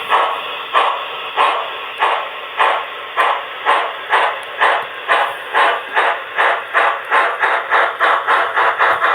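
Steam locomotive exhaust chuffs speeding up steadily from about one and a half to about three a second, the sound of a locomotive pulling away. The sound is thin, with no top end, as from a model train's sound unit.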